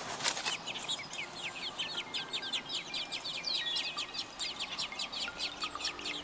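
Small birds chirping rapidly: a dense run of short, high, falling chirps, several a second.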